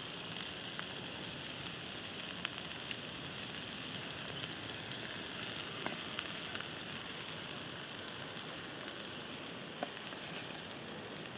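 Scampi, peppers and tomatoes sizzling steadily in a cast-iron pan over a campfire, with scattered small pops and crackles.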